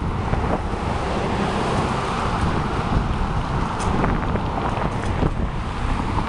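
Steady wind noise on the microphone of a moving bicycle, mixed with road traffic.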